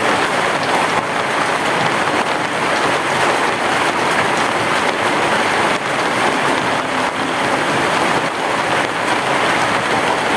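Heavy rain falling steadily on a roof, a dense even wash of drops with no clear thunder.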